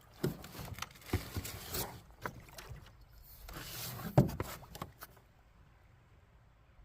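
Paddling a 50-year-old fiberglass canoe: paddle strokes splash in the water, with a few sharp knocks of the paddles against the canoe, the loudest about four seconds in. The strokes stop after about five seconds.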